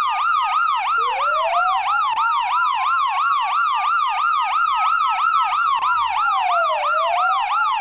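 Electronic police siren: a fast yelp sweeping up and down about three times a second, layered with a slower wail that restarts low about a second in, climbs for several seconds, dips near the end and begins to climb again.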